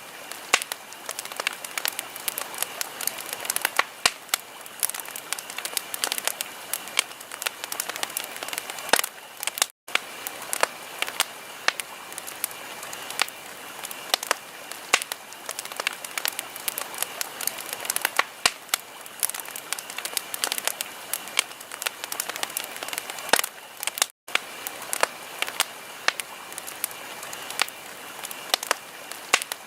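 Wood fire crackling in a fireplace: dense irregular pops and snaps over a soft steady hiss. The sound cuts out for a split second twice.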